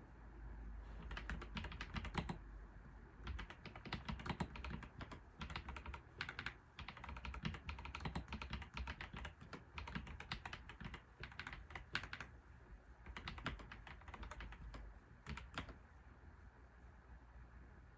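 Typing on a computer keyboard: quick runs of key clicks in bursts with short pauses, stopping near the end.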